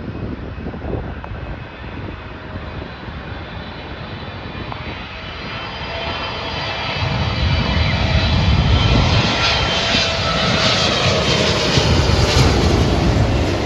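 Jet airliner on final approach to land, its engine noise swelling as it comes close and passes, with a whine that falls in pitch through the second half.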